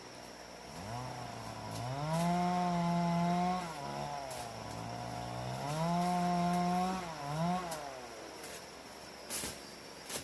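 A small engine revving up, holding high and dropping back, twice, then a short blip of the throttle. A few sharp clicks follow near the end.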